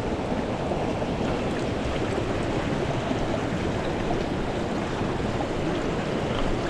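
Mountain stream water flowing in a steady rushing wash.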